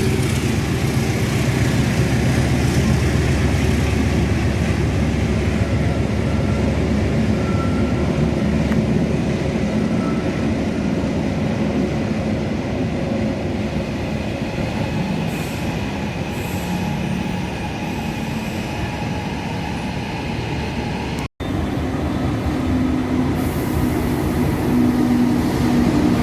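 Argo Bromo Anggrek passenger train rolling through the station: a steady rumble of steel wheels on the rails, with faint wheel squeal.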